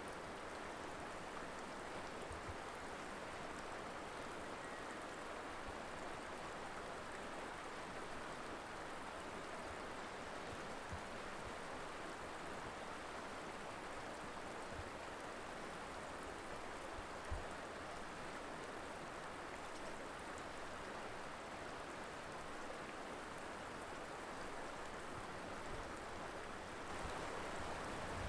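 Colorado River flowing: a steady, even rush of moving water, with a few faint low thumps, one about two thirds of the way through.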